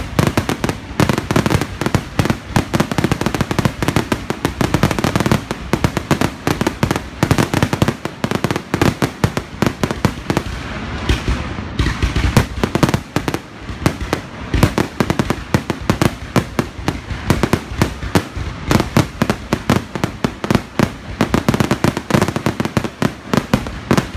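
Fireworks going off in a dense, rapid barrage: many sharp bangs a second with no let-up.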